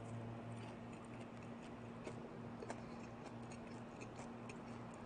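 Faint, irregular crisp clicks of someone chewing a mouthful of panko-crusted fried fish, over a steady low hum.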